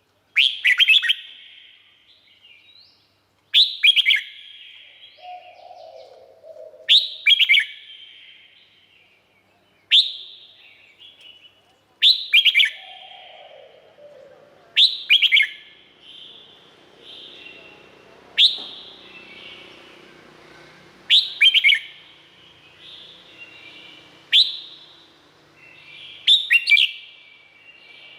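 Red-whiskered bulbul singing: short, loud phrases of sharp whistled notes, about ten of them, each repeated every three seconds or so.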